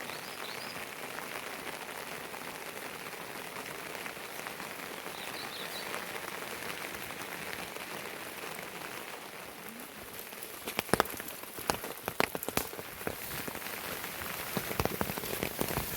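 Steady rain falling, an even hiss, with heavy drops starting to strike close by about eleven seconds in as a run of sharp, loud taps.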